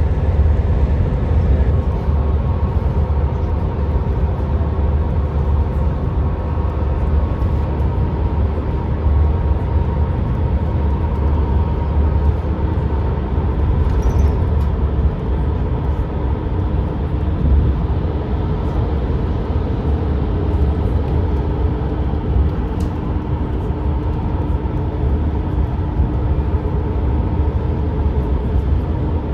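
Steady road and engine rumble heard inside the cabin of a moving vehicle at motorway speed: a constant deep drone with faint steady hums above it.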